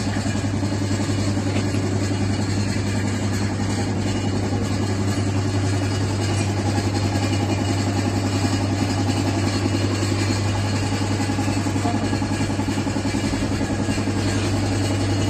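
Kawasaki Ninja 1000SX's inline-four engine running steadily through a newly fitted aftermarket exhaust, held at an even speed with no revving.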